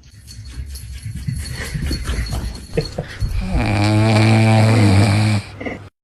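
A dog making a long, low, pitched sound lasting about two seconds from just past halfway, after a stretch of rough, noisy breathing sounds and a few knocks.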